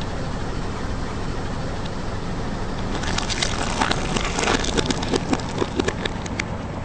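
Car engine running slowly as a tyre rolls over objects, with a run of crackling and crunching from about halfway through as they are crushed.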